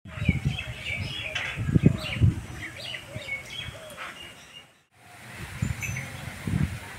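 Small birds chirping in short calls, over uneven low rumbling bursts. The sound cuts out briefly about five seconds in, then faint high peeps follow.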